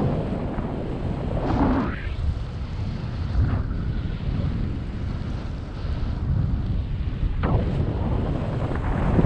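Wind buffeting the microphone in flight: a steady low rumble with louder gusts about two seconds in and again near the end.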